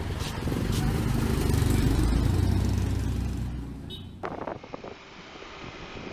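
A small motorbike engine running, swelling to its loudest about two seconds in and fading away after about three seconds. It then gives way abruptly to quieter street noise with a few knocks.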